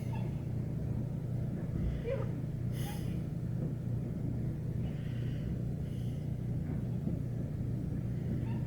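Steady low rumble, with a few faint, brief higher sounds over it.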